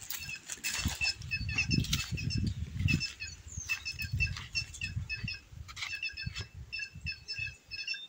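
Cancão (white-naped jay) calling in quick runs of short, high, repeated notes, several a second. Irregular gusts of wind noise on the microphone come and go underneath.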